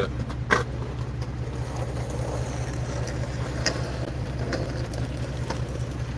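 Steady low motor hum, like an idling engine, with a few short sharp clicks over it.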